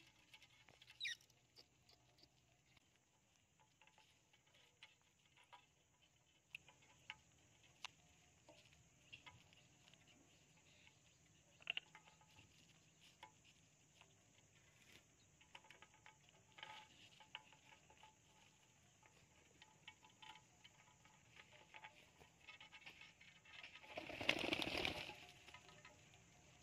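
Parrots moving about quietly: faint scattered clicks and taps, a short rising chirp about a second in, and a louder rustle lasting about a second near the end.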